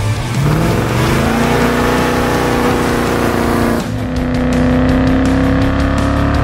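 1971 Chevrolet Monte Carlo's V8 revving up and held at high revs in a line-lock burnout, the front brakes locked while the rear tyres spin. The revs climb over the first second or so, dip briefly about four seconds in, then hold steady.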